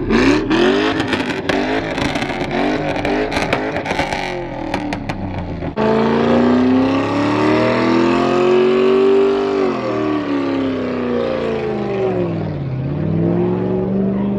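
Car engines revving hard, with a rapid run of sharp crackling pops in the first few seconds. After a sudden change about six seconds in, a single engine is held at high revs, its pitch swelling up and slowly sinking, dipping low, then climbing again.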